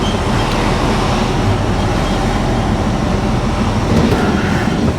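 Steady engine and road noise inside a lorry cab: the diesel engine running, with a continuous rumble and hiss.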